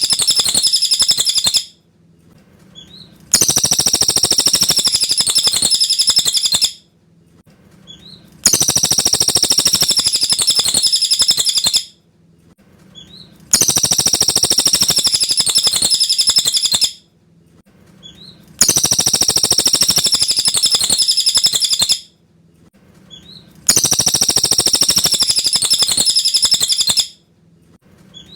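Cililin bird singing a high, rapid trilling phrase about three and a half seconds long, repeated the same way about every five seconds.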